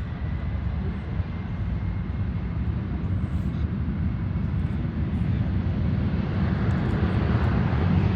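Boeing 737-800's CFM56-7B jet engines at takeoff power: a steady deep roar that slowly grows louder, with a faint high whine that fades out within the first three seconds.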